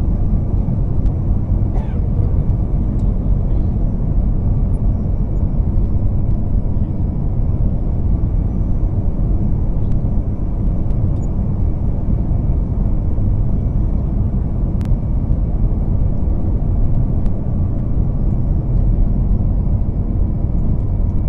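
Airliner cabin noise after landing: a steady low rumble of engines and airframe with a faint, steady high whine above it. A single sharp click sounds about fifteen seconds in.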